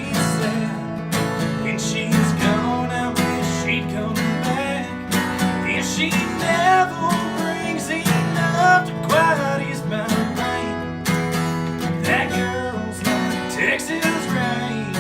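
Acoustic guitar strummed in a steady rhythm through an instrumental break, with a lead line of bending notes played over the chords.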